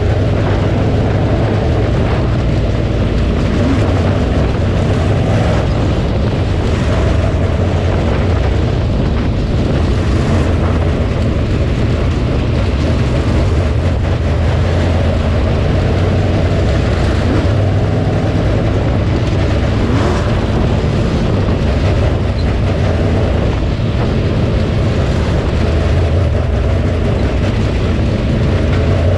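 Dirt late model race car's V8 engine running hard and steadily at speed, heard from on board: a loud, unbroken drone heavy in low rumble.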